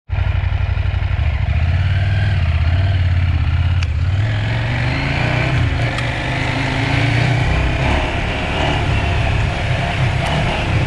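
Motorcycle engine running under way, its pitch rising and falling with the throttle, with rushing road and wind noise.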